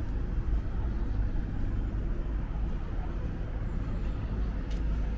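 Steady low rumble of distant road traffic in city ambience.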